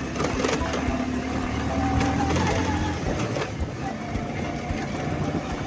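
Motorcycle engine running steadily while riding, with rough wind noise on the microphone.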